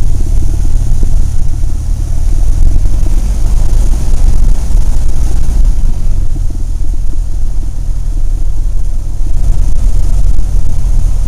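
Cessna 172's piston engine heard from inside the cabin, a steady, loud low drone.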